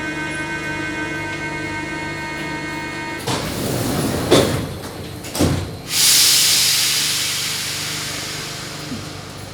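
Paris Métro train: a steady whine of several pitched tones that cuts off about three seconds in, then two short rushing noises, then a loud hiss of released compressed air about six seconds in that fades away over about three seconds.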